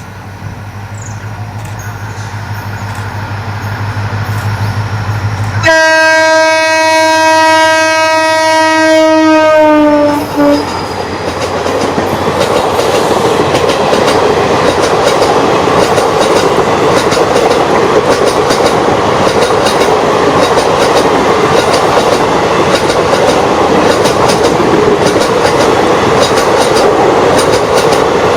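WDP 4D diesel-electric locomotive approaching with a low engine hum that grows louder, then a loud horn blast of about five seconds whose pitch drops as the locomotive passes. After it, the express coaches roll by with a steady rumble and rhythmic wheel clacks over the rail joints.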